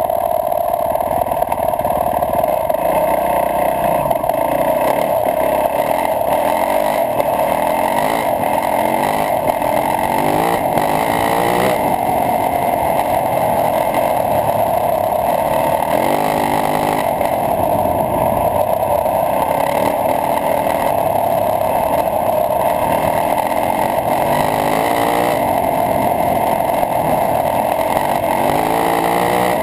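Yamaha YZ450F dirt bike's single-cylinder four-stroke engine running under way, its pitch climbing several times as it accelerates, over a steady rush of wind on the microphone.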